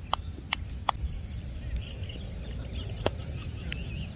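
A bird giving a quick series of short, sharp calls, about three a second, that stops about a second in. There is a single sharp click about three seconds in, over a steady low wind rumble on the microphone.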